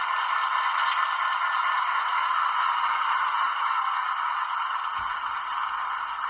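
Powerline T class model diesel locomotive running on its track, its DCC sound decoder playing diesel engine sound through the small onboard speaker, mixed with wheel and track noise. The sound is steady and eases off slightly towards the end.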